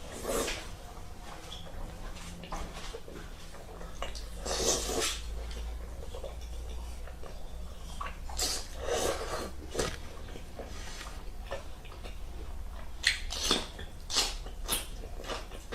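A person eating meat close to the microphone: bursts of wet chewing and lip smacking every few seconds, with a cluster of quick smacks near the end.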